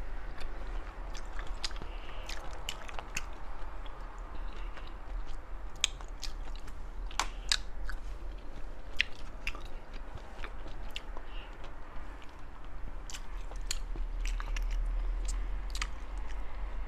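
Close-miked eating of spicy sea snails: chewing and wet mouth sounds with scattered sharp clicks.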